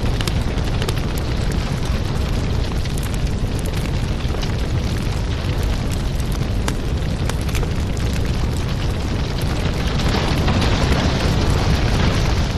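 Wood fire burning in a fireplace: a steady low rumble with frequent crackles and pops. The hiss of the flames swells about ten seconds in.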